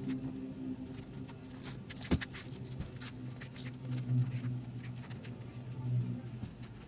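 Camera and tripod being handled and set up: scattered light clicks and knocks over a steady low hum.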